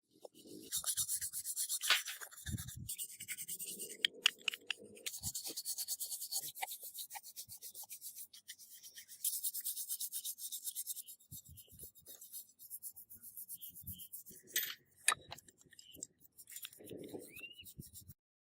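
Rapid back-and-forth scraping strokes, several a second and steady in rhythm, pausing a couple of times, with a few sharp knocks about three-quarters of the way through.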